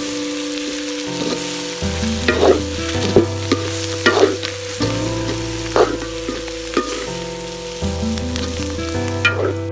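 Chicken with onions and chillies sizzling in a pan while a wooden spatula stirs and scrapes it, several scrapes a second or so apart.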